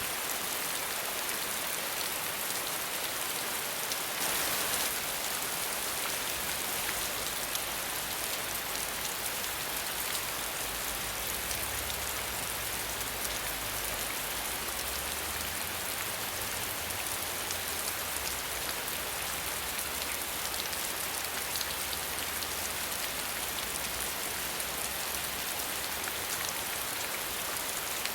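Steady rain falling with no thunder, an even hiss of many drops, with a brief louder swell about four seconds in.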